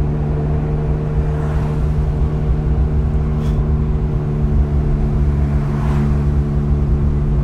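Ferrari 430 Scuderia 16M's V8, breathing through a Capristo exhaust system, running at steady revs while cruising. It gives a constant, even engine note heard from the open cockpit.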